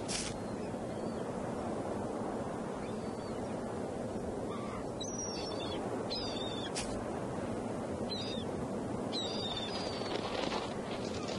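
A few short, high bird chirps, about four, in the middle of the stretch, over a steady hiss of background noise.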